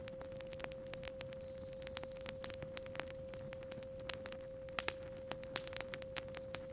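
Campfire crackling, with irregular sharp snaps of burning wood, over a steady 528 Hz sine tone.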